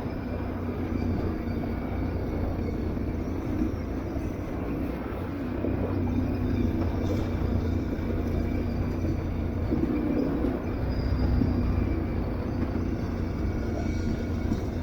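Aprilia Tuareg 660's parallel-twin engine running at a fairly steady pace while the bike is ridden, with a low rumble.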